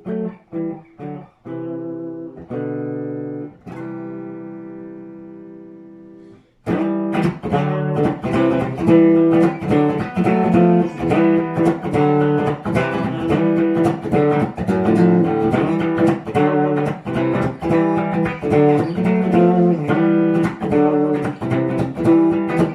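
Guitar playing an instrumental passage of a self-written song: a few short chords, then a chord left ringing that fades away. About six and a half seconds in, a busy, rhythmic strummed part kicks in and keeps going.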